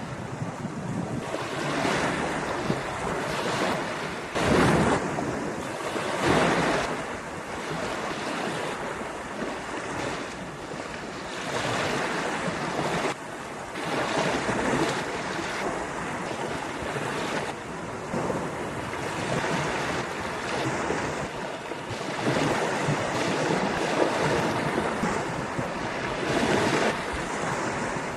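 Ocean waves breaking on a sandy beach, the surf rising and falling in repeated swells every few seconds, with wind buffeting the microphone.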